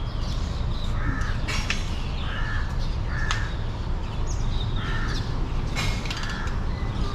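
A bird giving several short, harsh calls over a steady low background rumble.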